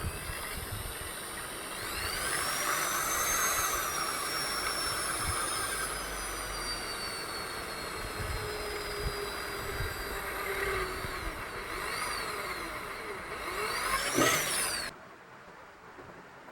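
A small high-speed electric motor whining. Its pitch climbs about two seconds in, then sinks slowly, swings quickly up and down twice near the end, and cuts off suddenly.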